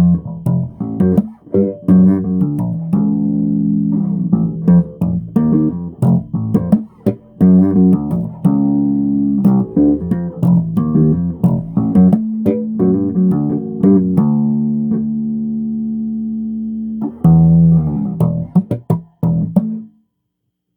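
Solo bass guitar playing a run of plucked notes, with two long held notes around the middle, dying away to silence just before the end.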